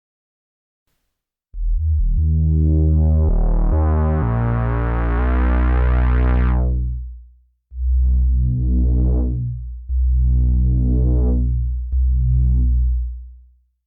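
Cherry Audio P10 software synthesizer playing a bass preset, deep synth bass notes. After about a second and a half of silence, one long note sounds with its filter sweeping open to a bright buzz and closing again, then fades; three shorter notes follow, each brightening briefly then dulling.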